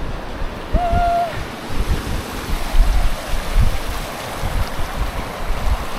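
Glacial meltwater rushing steadily, with wind gusting on the microphone.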